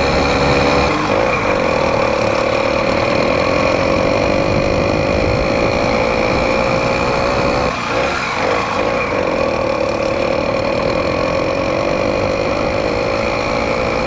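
Small gasoline engine of a bolt-on motorized bicycle kit running at a steady speed under way, with a steady engine note that dips briefly about eight seconds in.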